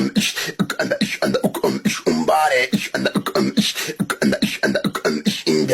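Vocal music track: a voice in quick, choppy rhythmic syllables with a short sung glide near the middle.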